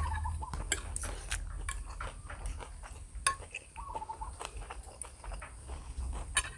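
Eating utensils clicking and clinking against a bowl of instant noodles in irregular, scattered strikes, with a steady low hum underneath.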